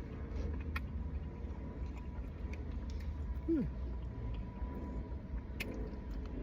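A person chewing a mouthful of gumbo greens, with small wet mouth clicks, and a brief falling hum of a voice about three and a half seconds in, over a steady low hum.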